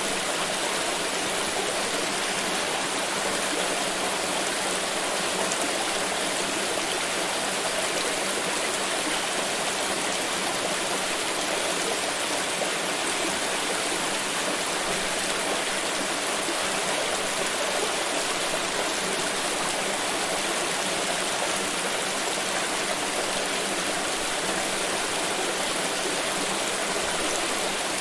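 Water pouring in a steady, unbroken stream, an even splashing rush that does not change.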